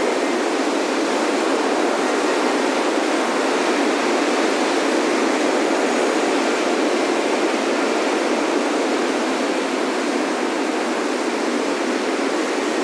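Ocean surf breaking on a sandy beach: a steady, unbroken wash of waves with no single wave standing out.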